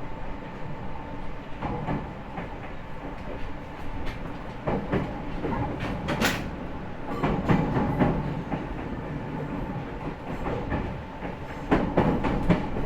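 Interior running sound of a JR East E501 series electric multiple unit, heard from a motor car: wheels knocking irregularly over rail joints over a steady running noise with a faint constant tone. A brief hiss sounds about six seconds in.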